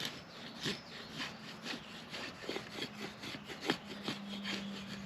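Gerber Freeman folding knife cutting into wood in short repeated strokes, about two a second.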